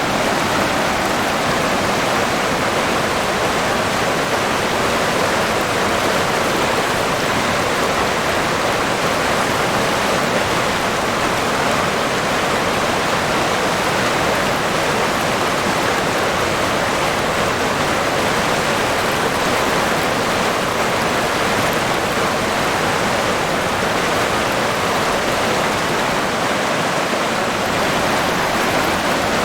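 River water rushing and flowing steadily, an even, unbroken sound.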